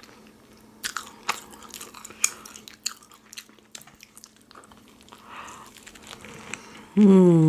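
Close-miked crunchy chewing and biting of food, a run of crisp clicks that thins out after a few seconds. Near the end a person makes a loud hummed "mmm" that falls in pitch.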